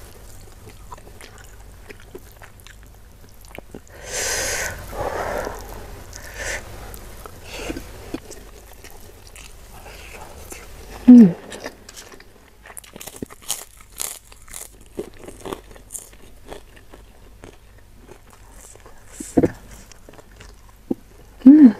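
Close-miked chewing and biting of spicy beef and rice, with many small wet clicks and smacks of the mouth. Two short loud hums falling in pitch, about 11 seconds in and near the end.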